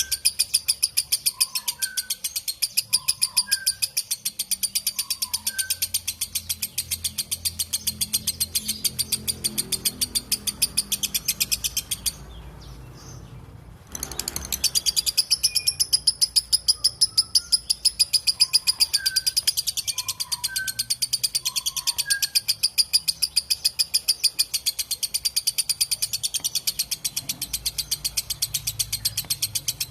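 Lovebird giving its long 'ngekek' chatter: a rapid, even string of sharp, high chirps that breaks off for about two seconds near the middle and then resumes. Faint lower chirps from another bird sound in the background.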